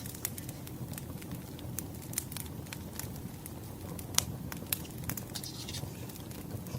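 Wood fire crackling, with scattered sharp pops and snaps over a low steady rumble.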